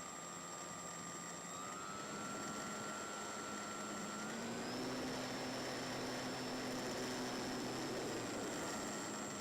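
Electric motor and propeller of a Slow Stick RC plane, heard through the onboard microphone as a steady whine over wind hiss. The pitch steps up twice with throttle and drops back near the end.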